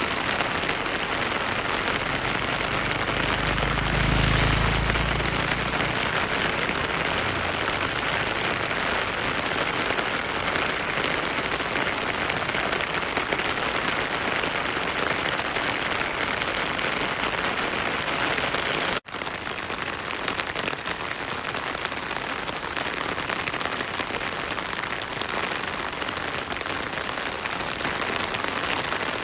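Heavy rain falling steadily, an even hiss of drops. A brief low rumble swells about four seconds in, and the sound drops out for a split second about two-thirds of the way through, then carries on slightly quieter.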